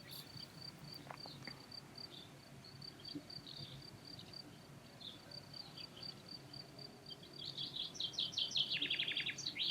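Crickets chirping in a steady, fast, even rhythm. Near the end a bird breaks in with a run of quick chirps.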